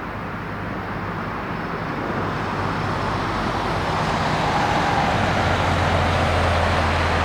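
Jet noise from a Boeing 737 MAX 8's CFM LEAP-1B engines as the airliner comes in to land: a steady rushing roar that grows louder, with a low hum getting stronger about five seconds in.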